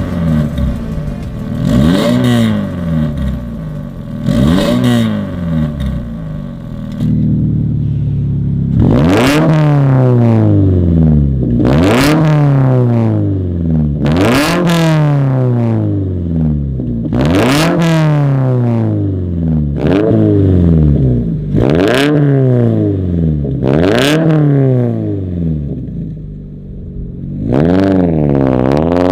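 Subaru BRZ's flat-four engine revved repeatedly in free rev through its exhaust. Each blip climbs quickly and then falls back slowly to idle, about one every two and a half seconds through most of the stretch, with a brief dip before a last rev near the end.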